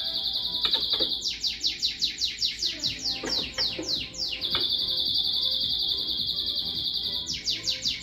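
Bird chirping: a steady high trill, broken twice by runs of quick falling chirps, about five a second, over faint background music.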